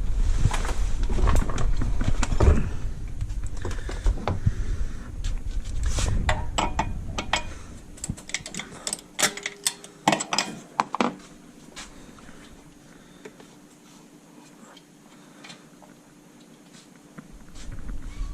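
Clicks, clinks and knocks of hands working with tools and metal parts. A cluster of sharp clicks comes about ten seconds in, and after that it goes quiet apart from a faint steady hum.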